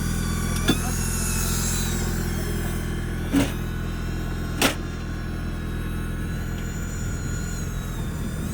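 Off-road 4x4 vehicle's engine running steadily, with three sharp knocks: one about a second in, and two more around three and a half and five seconds.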